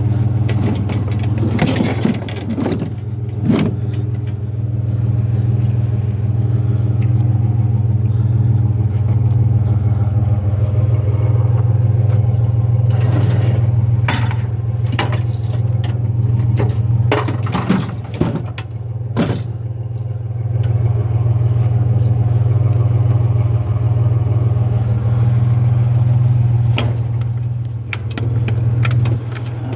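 A vehicle driving, its engine and road noise a steady low drone that swells and eases with the throttle. Loose metal in the load knocks and rattles now and then over bumps.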